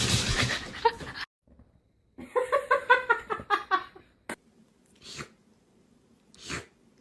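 A cat vocalizing: a loud hiss-like noise for the first second, then a quick run of about eight short pitched cries, followed by a few brief breathy puffs.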